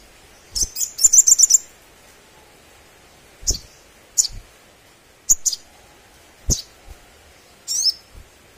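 A sunbird singing sharp, high chirps, with a loud rapid trill of about six notes early on and scattered single chirps after it. Dull low thumps come with some of the chirps.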